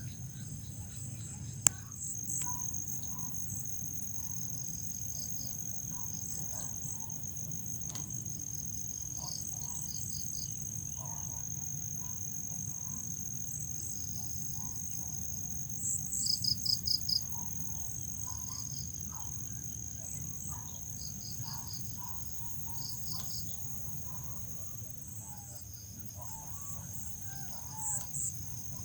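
Crickets calling: one steady high-pitched trill, with other crickets chirping in short pulsed bursts over it. The loudest is a run of about five chirps a little past halfway. A single sharp click sounds near the start.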